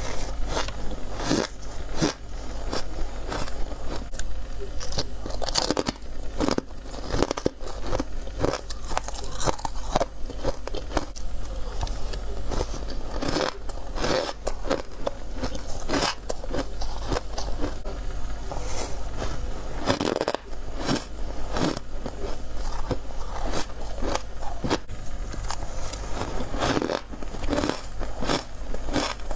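A person biting into freezer frost, crisp crunching bites following one another with crackling in between, over a steady low hum.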